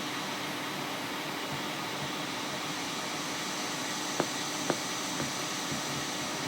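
Steady hiss with a faint low hum. Three quick clicks about half a second apart come a little past the middle.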